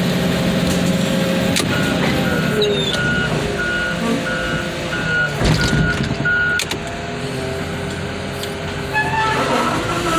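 A heavy diesel machine running, its backup alarm beeping at a steady pitch a little under twice a second for about five seconds. A few sharp knocks come near the middle, as the engine note dips and rises under load.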